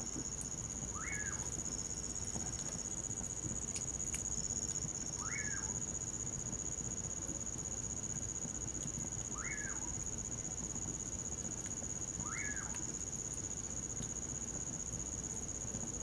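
A bacurau (common pauraque) calling at night: a short whistled note that sweeps up and falls back, four times, about every three to four seconds. A steady high trill of crickets runs underneath.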